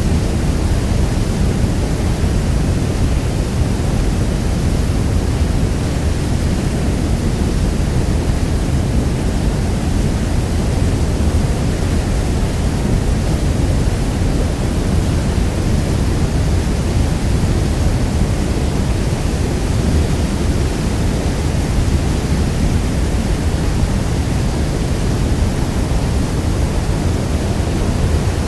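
Niagara Falls: a steady, deep rush of heavy falling water, even and unbroken, strongest in the low range.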